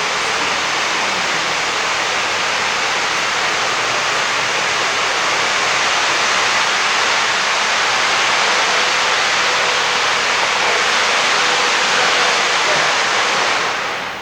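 Steam venting from steam locomotive 3801 in a loud, steady hiss that dies away quickly near the end.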